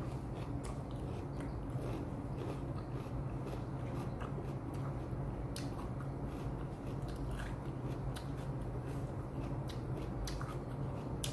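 Close-miked chewing of food by a person eating, with scattered small clicks and crunches from the mouth, over a steady low hum.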